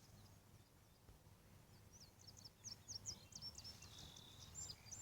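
Faint songbird song: a quick run of short, high chirps with a brief trill, starting about two seconds in, over a quiet low background hum.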